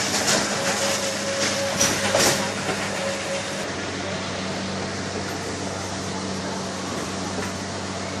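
Narrow-gauge train cars rolling along the track, heard from an open passenger car: a steady rumble and rattle with a low hum, a few sharp clicks in the first two seconds or so, and a faint thin tone that dies away a few seconds in.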